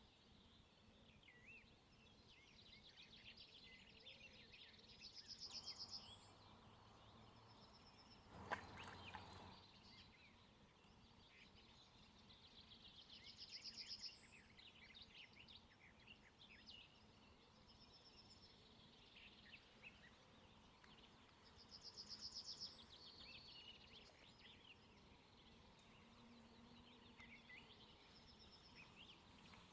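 Faint dawn birdsong of several songbirds, full of small chirps. One bird repeats a quick trill of high notes about every eight seconds. A brief knock or rustle comes about eight seconds in.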